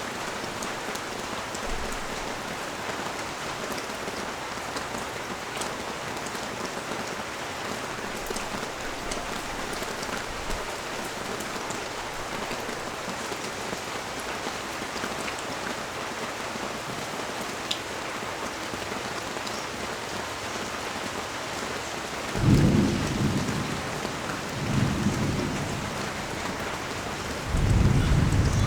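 Steady rain falling on a street. Low rumbles of thunder come in about three-quarters of the way through: two short ones, then a longer one still going at the end.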